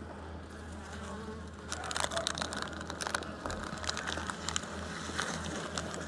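Honey bees buzzing around an open hive, with a run of clicks and scrapes from hive parts being handled, starting about two seconds in.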